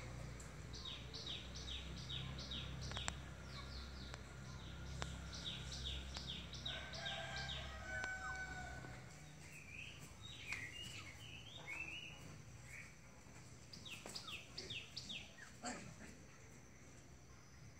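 Small bird chirping in quick runs of short, falling notes, several notes a second, with a few rising calls in between, over a steady low background hum.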